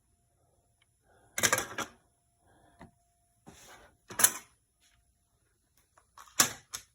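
Plastic drip-tray parts of a Miele CM 5310 coffee machine clattering and clicking as they are detached and handled: a short rattle about a second and a half in, then sharp clicks around four seconds in and twice more near the end.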